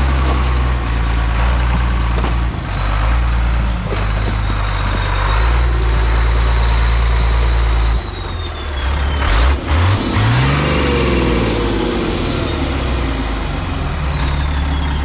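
1987 Ford L8000's turbo diesel engine running with a steady high turbo whine over a deep drone. About nine seconds in it revs up briefly: the whine climbs sharply, then winds down slowly as the engine settles back.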